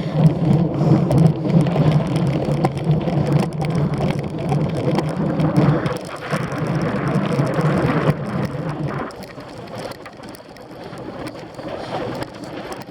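Cyclocross bike being ridden over rough ground: a steady rattling and rushing noise of tyres and frame, with a low hum that drops away about nine seconds in as the sound turns quieter.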